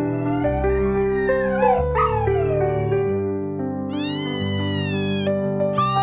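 High-pitched cartoon animal cries over background music: wavering, gliding whines in the first half, then a long drawn-out cry about four seconds in and a short one at the end.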